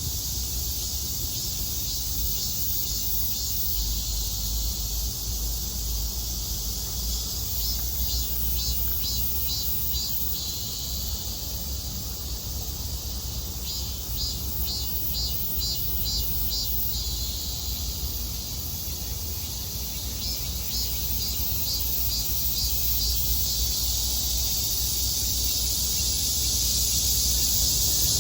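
Cicadas buzzing steadily in a high, even drone, with three runs of rapid, evenly spaced pulsing calls about eight, fourteen and twenty seconds in. A low, steady rumble sits underneath.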